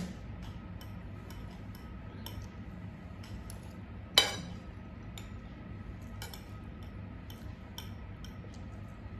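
Cutlery clinking and scraping against dishes while eating, a scatter of small light clicks with one louder knock about four seconds in.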